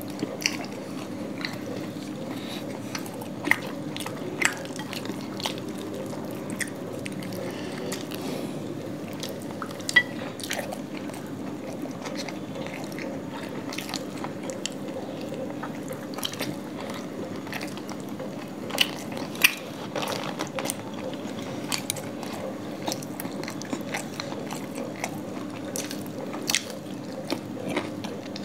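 Two people eating flatbread and chicken curry with their hands, ASMR-style: chewing and biting with sharp wet mouth clicks scattered irregularly, over a steady low hum.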